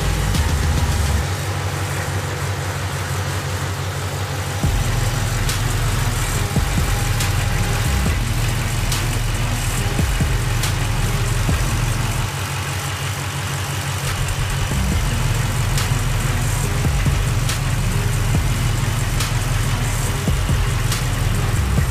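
Supercharged Ford Mustang V8 idling steadily, with two brief quieter stretches.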